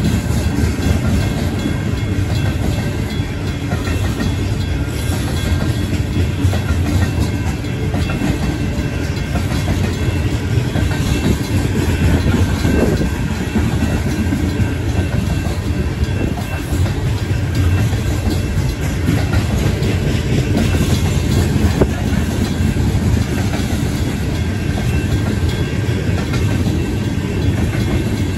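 Union Pacific coal train cars rolling past at slow speed: a steady low rumble with the wheels clicking over the rail joints. The grade-crossing bells ring faintly underneath.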